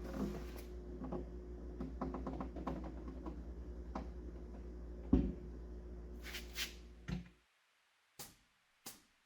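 Steady low hum with a run of light knocks and clicks and one louder thump about five seconds in. The hum cuts off about seven seconds in, leaving near silence broken by a few sharp clicks.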